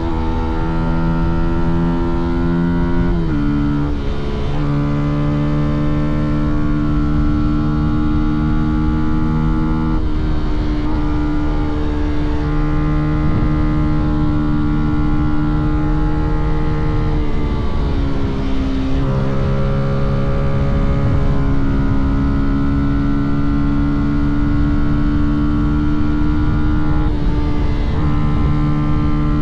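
Fantic Caballero 125's single-cylinder four-stroke engine and exhaust running under way at steady cruising revs. The engine note holds level, steps down in pitch about three seconds in and again near the middle, and climbs back up a little later and near the end.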